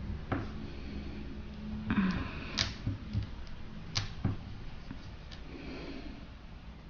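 Hands handling a light modelling-clay figure on a tabletop: a handful of sharp taps and clicks, with a brief rustle about two seconds in.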